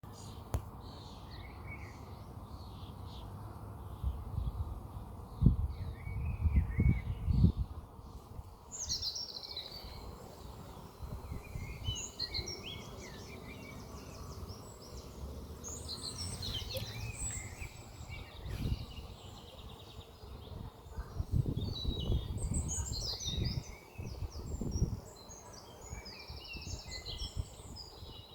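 Small birds chirping and singing repeatedly over a steady low outdoor background, with gusts of wind buffeting the microphone several times.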